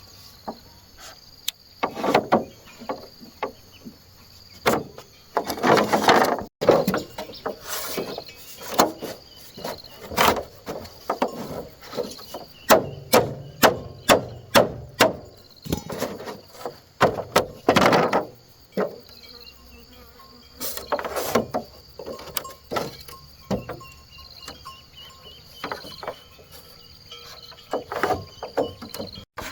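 Irregular sharp knocks and strikes, several a few seconds apart and some in quick runs, over a steady background of insects chirring.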